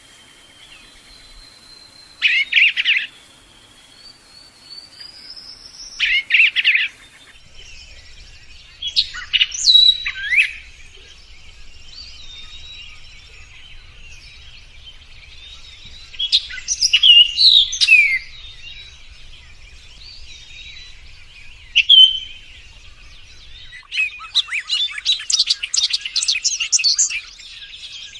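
Lovebird chirping: loud bursts of rapid, high, shrill chirps every few seconds, with softer chirps in between. The longest run of chirps comes near the end.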